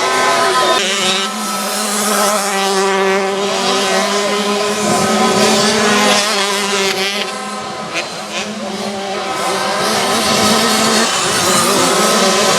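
Several 65cc two-stroke motocross bike engines revving, their pitch rising and falling as the bikes race.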